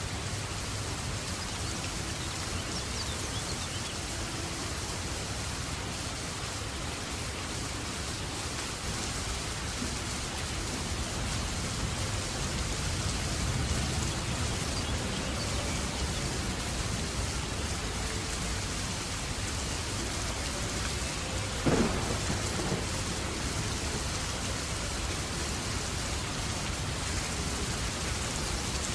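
Steady winter rain falling, with a low rumble of thunder swelling about halfway through. About three-quarters of the way in there is one brief, sharp sound, the loudest moment.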